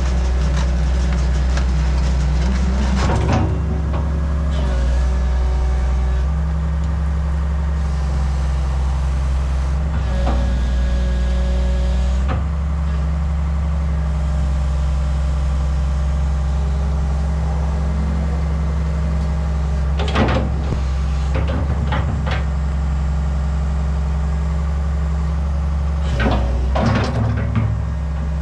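Komatsu PC200LC excavator's diesel engine running steadily, its note stepping up and down a few times as the machine works. Several sharp metallic clanks about two-thirds of the way through and again near the end.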